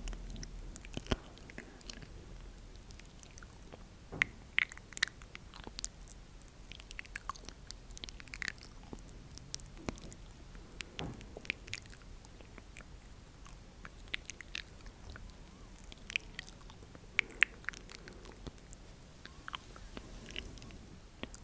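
Close-miked ASMR mouth sounds: irregular wet clicks and pops of lips and tongue, spaced out unevenly, a few sharper than the rest.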